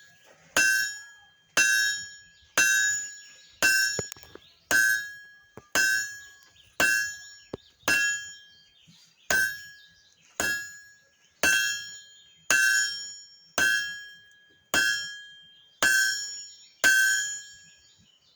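Hand hammer striking hot iron on a blacksmith's anvil, about one steady blow a second, each blow followed by a bright ringing from the anvil. The iron is being drawn out toward the start of a scroll.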